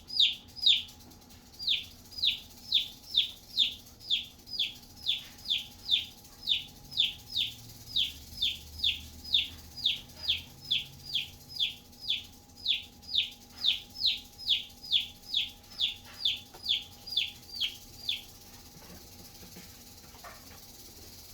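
Domestic feeder chick peeping: short calls, each falling in pitch, repeated about twice a second, stopping abruptly about 18 seconds in.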